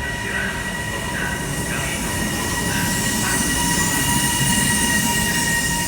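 A train running on the rails, with a low rumble under steady high-pitched squealing tones, getting louder toward about four to five seconds in.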